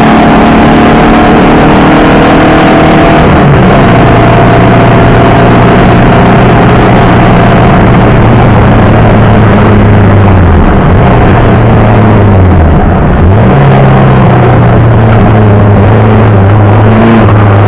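Porsche Type 4 flat-four with Weber carburettors in a 1303 Beetle rally car, running hard up a hillclimb. The engine note drops about three seconds in, dips and recovers around ten and thirteen seconds in as the driver shifts or lifts, and rises and falls again near the end.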